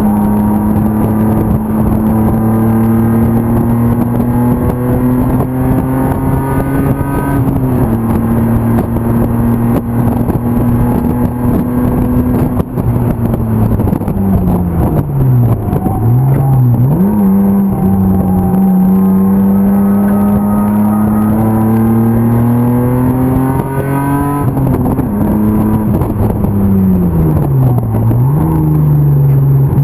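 BMW M50 straight-six in an E36 325 race car under hard driving: the engine note climbs slowly under throttle, sags briefly a few seconds in, then twice falls steeply and comes back up as the car slows for a corner and accelerates away.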